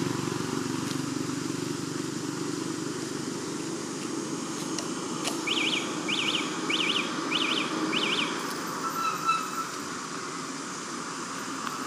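Steady low outdoor rumble, with a bird's high chirping call repeated five times in quick succession, a little over half a second apart, around the middle.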